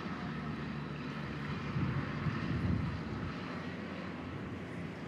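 Steady engine drone with a low hum, swelling louder for about a second midway through.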